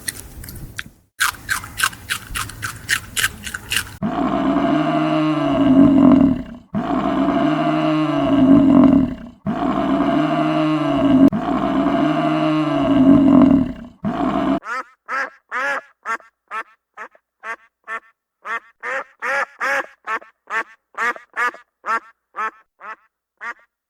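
Animal calls: four long, deep, identical calls one after another, then a quick run of short, high chirps.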